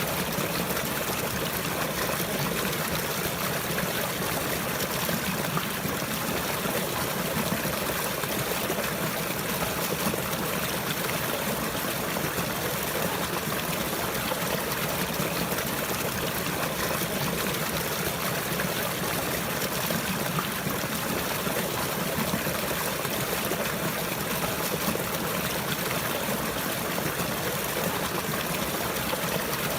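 Running water of a small stream, trickling steadily without change.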